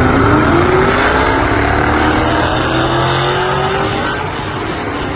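A 2008 Mustang GT's 4.6-litre V8 accelerating through BBK long-tube headers, a BBK X-pipe and a Borla ATAK exhaust. Its pitch rises steadily, then it eases off about four seconds in.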